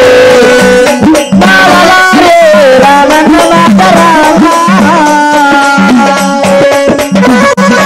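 Maharashtrian folk music from a jagran-gondhal troupe: a sliding, ornamented melody of held notes over steady hand-drum strokes.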